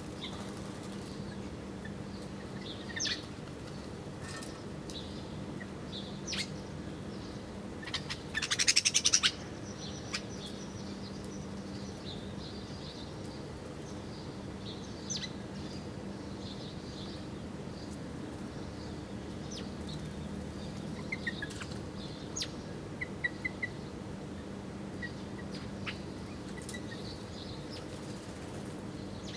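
Small wild birds chirping in short, scattered calls at a feeding spot, with a loud burst of rapid wingbeats about eight seconds in. A steady low hum runs underneath.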